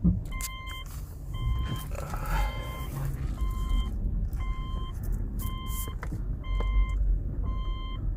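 A vehicle's electronic warning beeper sounding about once a second, each beep about half a second long, over the low rumble of an idling engine.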